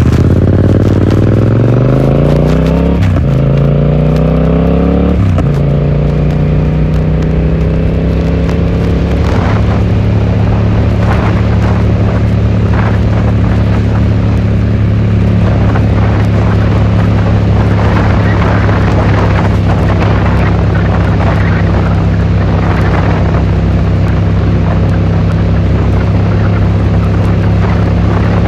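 Yamaha XSR700's parallel-twin engine through an Akrapovič exhaust, rising in revs and shifting up twice in the first five seconds or so, then settling into a steady cruise. Picked up by a phone carried in the rider's pocket.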